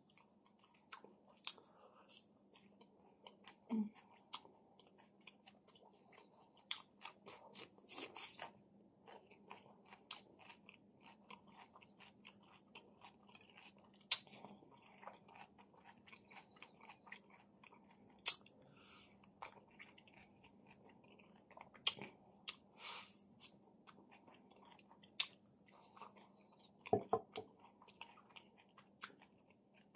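Close-miked chewing and wet mouth clicks of someone eating smoked chicken and fresh parsley, in short irregular smacks. A faint steady hum runs underneath.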